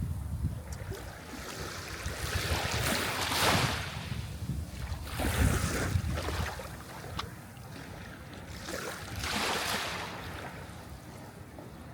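Sea waves breaking and washing in, the surf swelling three times over a steady low rumble.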